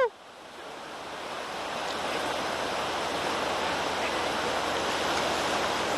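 River water rushing, a steady noise that grows louder over the first two seconds and then holds.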